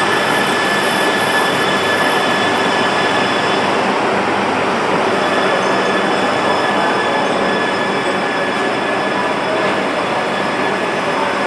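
Shinkansen train, an E5 series coupled with an E3 series, running along the platform. It makes a steady, loud rush of running and wheel noise, with thin, steady high-pitched tones over it.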